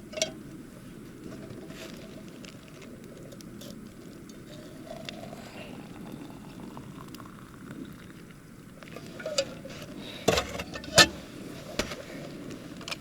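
Wood campfire burning with a steady low hiss and scattered small crackles, with a few sharper, louder pops about ten to eleven seconds in.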